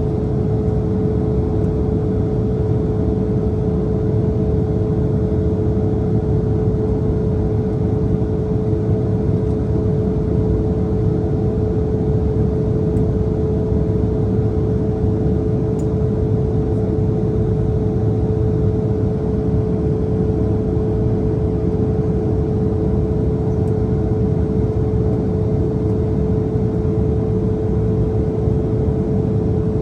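Steady cabin noise of an Embraer E170 in flight: the rush of air and the hum of its GE CF34 turbofans, with one steady held tone over a low rumble.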